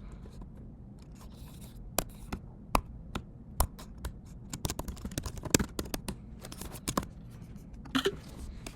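Computer keyboard typing: irregular single keystrokes, with a quicker run of keys through the middle.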